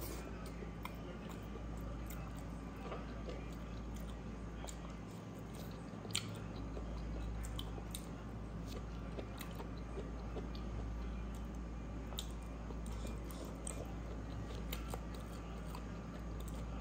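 Close-up mouth sounds of chewing a handful of rice and braised pork intestine: wet smacking and scattered small clicks, with one sharper click about six seconds in, over a steady low hum.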